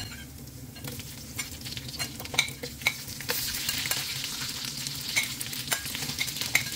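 Chopped chicken wings sizzling as they are scooped into a wok of hot oil with frying garlic and onion, with sharp clicks of the spatula against the bowl and wok. The sizzle grows louder about three seconds in, as the chicken lands in the oil.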